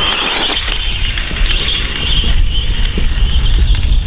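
Brushless electric motor of a SKYRC SR5 RC dirt bike on a 2S LiPo, revved up to a steady high whine that wavers slightly as the throttle is held, with a low rumble of wind on the microphone underneath.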